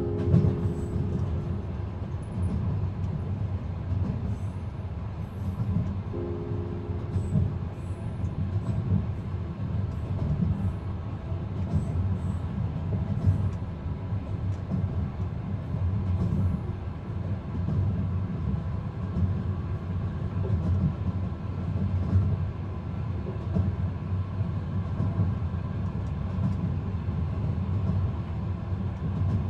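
Steady low rumble of a moving passenger train, as heard from inside the carriage. A few brief held tones sound near the start and again about six seconds in, and faint light ticks come and go in the first half.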